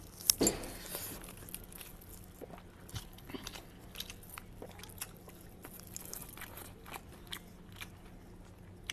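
Faint eating sounds: a person chewing and crunching food, with scattered soft clicks and crackles. The loudest crunch comes about half a second in.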